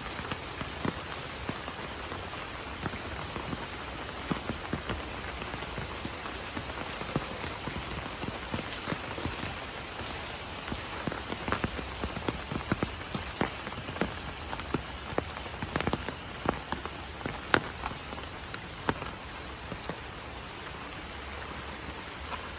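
Steady rain falling, with many separate heavier drops or drips landing close by, most frequent in the middle stretch.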